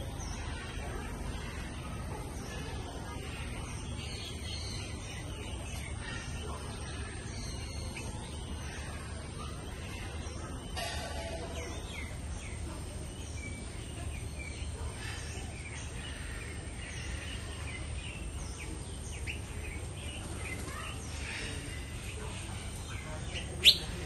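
Many small birds chirping and calling from the aviaries, short high chirps scattered throughout over a steady background hum, with one short, much louder sharp sound just before the end.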